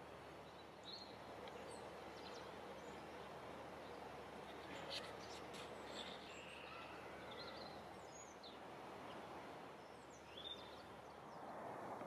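Quiet outdoor ambience, a faint steady hiss, with small birds giving scattered short chirps throughout.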